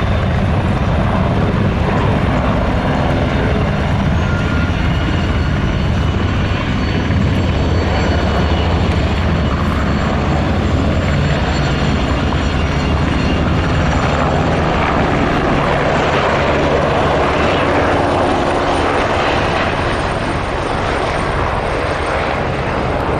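Military turbine helicopter running close by: a steady low rotor beat under a high turbine whine.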